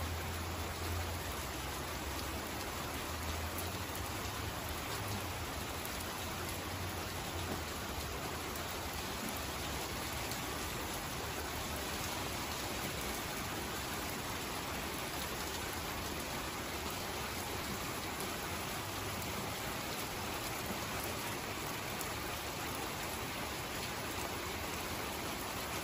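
Steady rain falling on a wet wooden deck and patio furniture, an even hiss without breaks.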